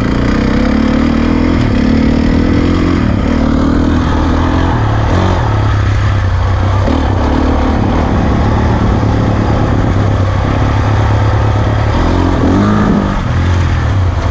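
A 2009 450 cc four-stroke dirt bike engine running under load while being ridden along an enduro trail. It is loud and continuous, with the pitch rising and falling as the rider works the throttle.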